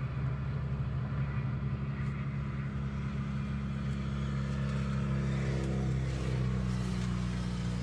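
Vehicle engine running steadily, its low hum shifting slightly in pitch about two-thirds of the way through.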